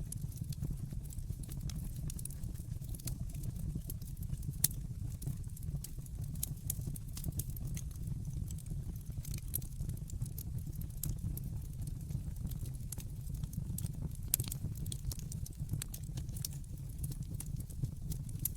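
Wood fire burning in a fireplace: irregular sharp crackles and pops over a steady low rumble, with one louder pop about four and a half seconds in.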